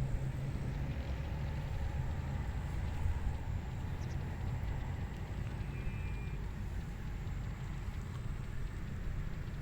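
Steady wind over a rice paddy, with a low rumble from the wind on the microphone.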